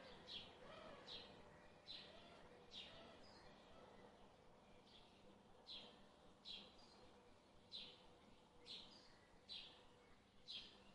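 A bird giving short chirps that fall sharply in pitch, about one a second, faint over a light background hiss.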